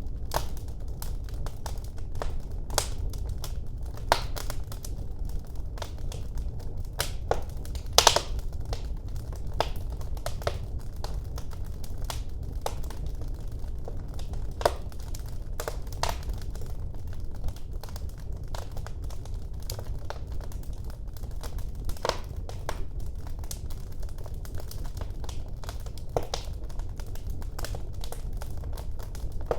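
Wood fire burning in a fireplace: irregular sharp crackles and pops over a steady low rumble of the flames, with one louder pop about eight seconds in.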